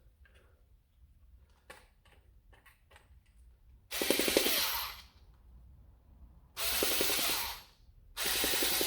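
Electric screwdriver running in three short bursts of about a second each, driving a screw that is hard to turn in, with a few light handling clicks before the first burst.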